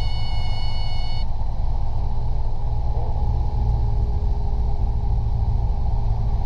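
Robinson R22 helicopter cabin noise during a practice autorotation, with the engine throttled back. It is a steady, loud rumble of the rotor and airframe. A set of high steady tones cuts off suddenly about a second in.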